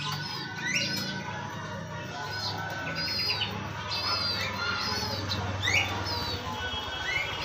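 Birds chirping: many short, high chirps repeating throughout, with a few quick rising notes, over a steady low hum.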